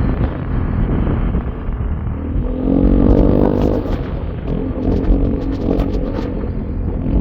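A vehicle's engine running on the move, over a heavy low rumble. A pitched engine note swells about two and a half seconds in and again around five seconds.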